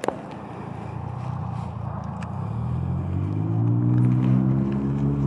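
A sharp click right at the start, then a car engine growing steadily louder and rising slightly in pitch from about halfway through.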